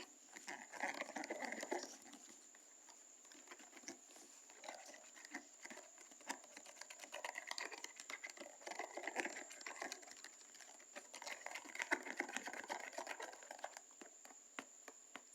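Soft, irregular wet clicks and squelches of a thick, sticky homemade slime mixture being stirred and handled.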